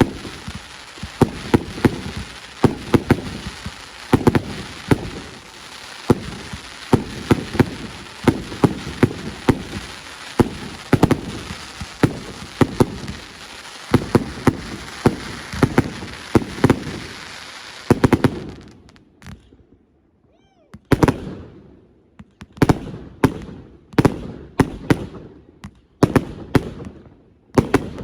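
Fireworks display: a rapid, continuous barrage of bangs from bursting shells over a steady crackling hiss. It breaks off about two-thirds of the way through for a couple of seconds, then the bangs resume.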